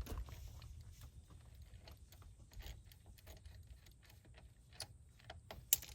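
Scattered light metallic clicks and clinks of tools and parts being handled on the tractor, with one sharper click near the end, over a low rumble.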